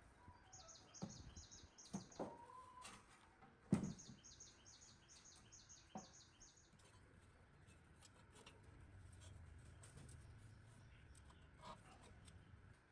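Faint, rapid bird chirping, about eight chirps a second, in two runs through the first seven seconds. A few sharp knocks or taps come in among them, the loudest about four seconds in.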